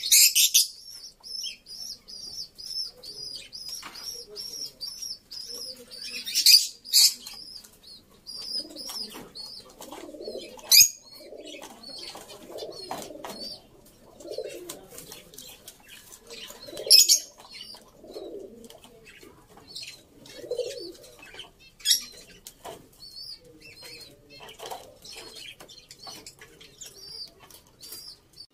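Several birds calling: a fast, even series of high chirps for the first several seconds, then lower cooing calls through the middle, with short, loud, sharp chirps scattered throughout.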